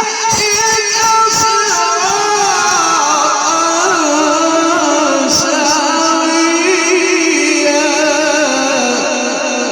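A male Quran reciter's voice in a long melodic passage of mujawwad recitation, holding and ornamenting notes that waver up and down in pitch.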